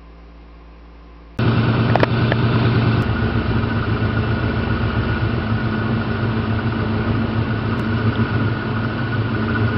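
1998 Ford Mustang's 4.6-litre V8 running steadily at idle, with the fuel pump's dropping resistor bypassed by a jumper wire to check whether the open resistor is what stalls the car. The engine comes in abruptly about a second and a half in, after a faint hum, with a couple of light clicks soon after.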